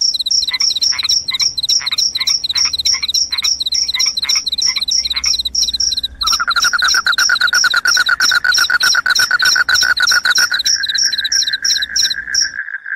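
Crickets chirping: shrill pulsed chirps repeating about four times a second. A second, lower-pitched continuous trill joins about six seconds in, and the sound cuts off suddenly near the end.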